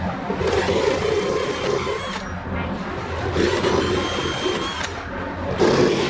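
Electric power tool motor running with a steady hum, with uneven swells of louder cutting or grinding noise several times.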